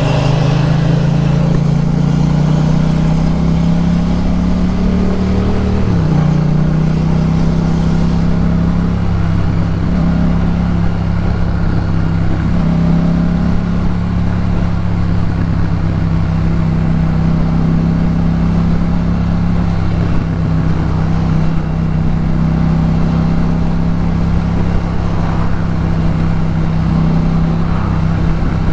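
2018 Yamaha MT-07's 689 cc parallel-twin engine running through a Jeskap K4 full aftermarket exhaust while riding, holding a steady cruising note with a brief break and change in pitch about six seconds in.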